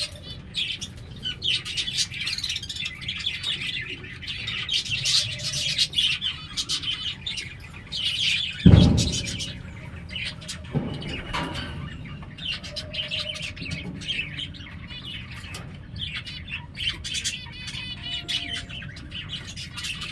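Pigeon chicks peeping and chirping continually in high, quick calls. A loud low thump comes about nine seconds in, and a smaller one a couple of seconds later.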